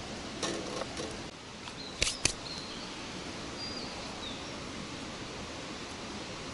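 Steady outdoor background hiss with a few light clicks in the first second and two sharp knocks about two seconds in, then a few faint bird chirps.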